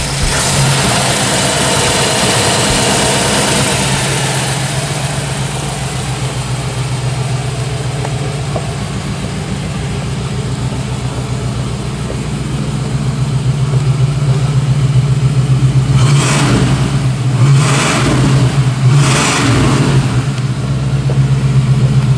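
1949 Cadillac Series 62's original 331 cubic-inch V8 running at idle just after starting, with three short revs about two-thirds of the way through before it settles back to a steady idle.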